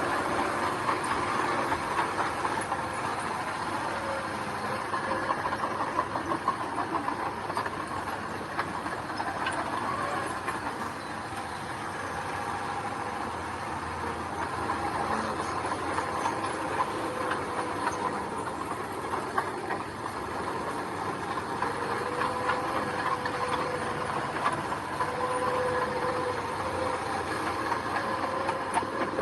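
Mini crawler bulldozer at work, its diesel engine running steadily under a constant metallic clatter and rattle of steel tracks. A steady squealing tone joins in over the last several seconds.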